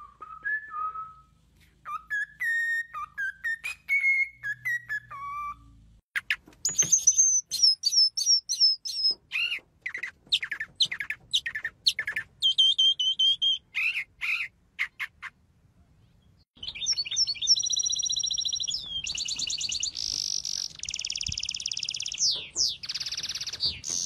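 A cockatiel whistles a short warbling tune in clear notes, then a northern mockingbird sings a string of varied phrases, each note repeated rapidly several times. From about two thirds through, a bird gives loud, fast trills and buzzing notes.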